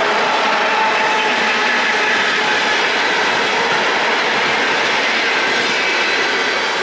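Electric trains running on the line: steady noise of wheels on rail with faint whining tones, from the EP2K electric locomotive and its passenger coaches approaching, with a suburban electric train on the neighbouring track. It eases off slightly near the end.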